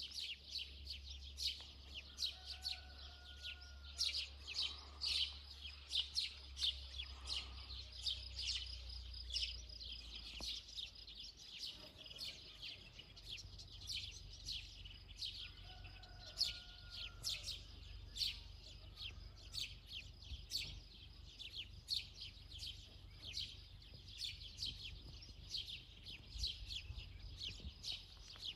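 Small birds chirping, a dense run of short high chirps, several a second, over a low rumble.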